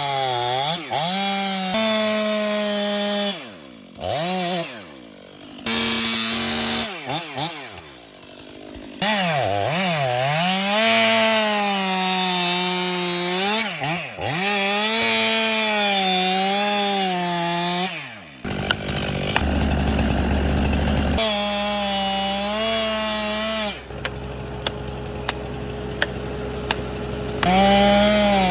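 Chainsaw engine running under load while cutting a large trunk, its pitch repeatedly sagging and climbing as the chain bites into the wood and frees up, easing off briefly twice. About two-thirds through, a deep low rumble rises beneath the saw for a few seconds.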